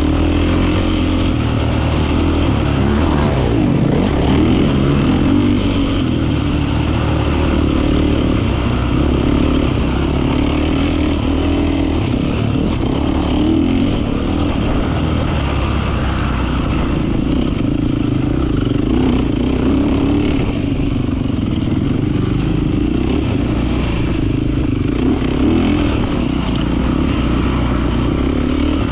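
Beta 450 RX four-stroke single-cylinder motocross bike engine running under way, its note wavering up and down as the throttle is worked.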